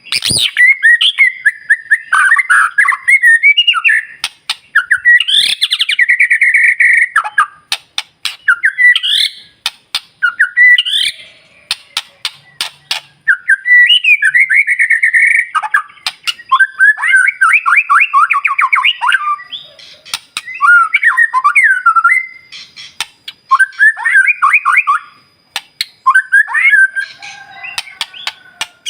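White-rumped shama (murai batu) singing loudly in bouts of varied whistled and warbled phrases, broken by short gaps and studded with sharp clicking notes. It is the excited song played as a lure to provoke other birds into singing.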